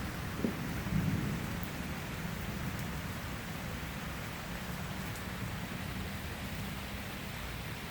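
Steady rain falling and pattering on a roof, with a low rumble of distant thunder that swells about a second in and slowly dies away. A single short knock comes just before the rumble.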